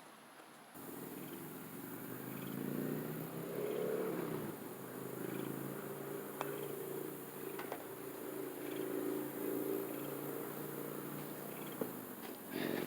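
A small engine running steadily, starting abruptly about a second in, its pitch rising a little and then holding, with a couple of faint clicks, and cutting off at the end.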